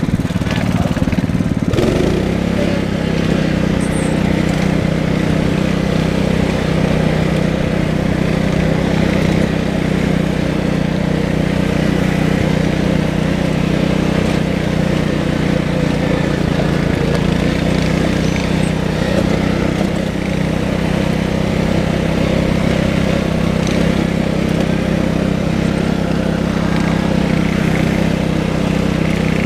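Tractor engine running steadily and loud, its note shifting about two seconds in and then holding.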